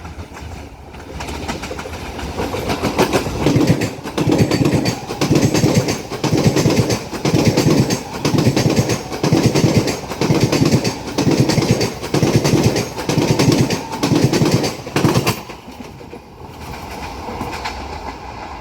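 A train passing close by at speed. Its wheels beat over the rail joints in a steady clickety-clack, a little under once a second, building up over the first few seconds and fading away near the end.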